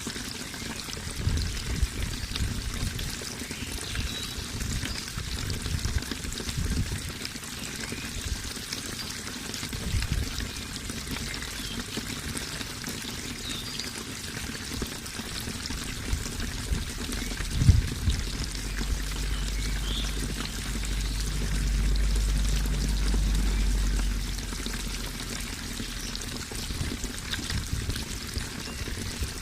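Running water pouring and trickling steadily. Low thumps are heard in the first third, and a low rumble swells for several seconds past the middle.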